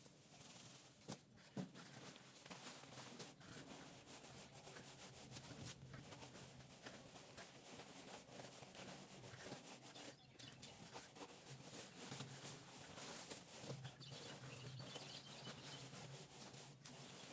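Faint, continuous scraping and rubbing of a plastering tool working cement plaster on a wall, with small scattered clicks.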